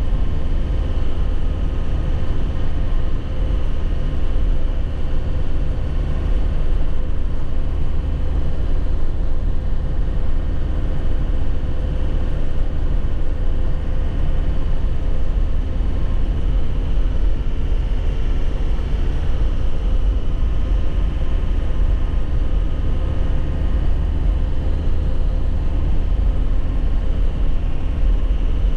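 Inside the cab of a 2001 Nissan Cabstar light truck driving at a steady pace: the diesel engine's steady rumble mixed with road noise, with no gear change or revving.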